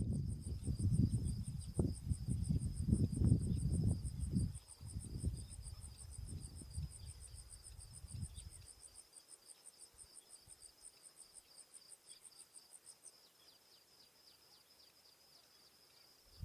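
Insects trilling steadily in two rapid, high-pitched pulsing trills, the higher one stopping near the end, over a low rumble that fades out by about halfway.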